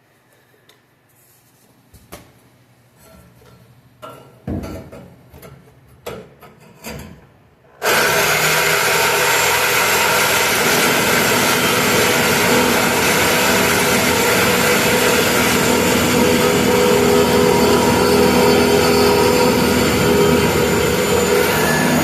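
A few knocks and handling sounds, then about eight seconds in a Warrior reciprocating saw (Sawzall) starts suddenly and runs steadily, its blade cutting through a truck's steel exhaust pipe.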